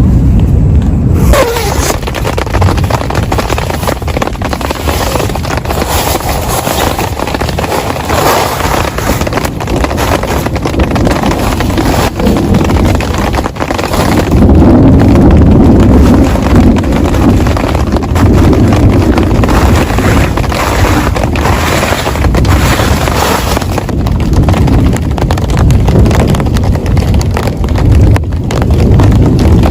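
Heavy rain pelting a tent, loud and continuous, with a low rumble of wind on the microphone that swells around the middle.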